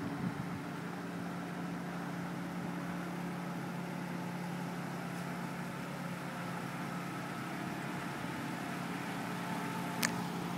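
Nissan Maxima 3.5 SE's 3.5-litre V6 idling steadily, with one sharp click near the end.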